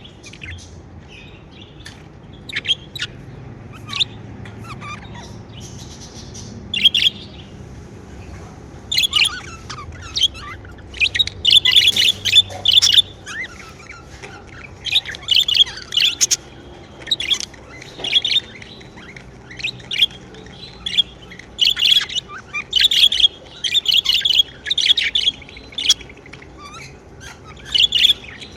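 Pet budgerigars chirping: quick, high, sharp calls coming in bursts, sparse at first and then in busy runs of chatter.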